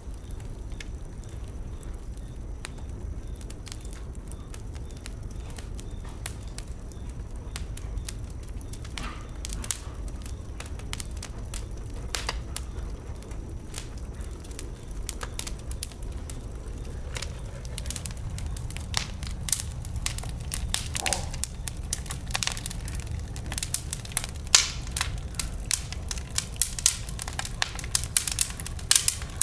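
Wood fire burning, crackling and popping with sharp snaps over a steady low rumble; the pops come more often and louder in the second half.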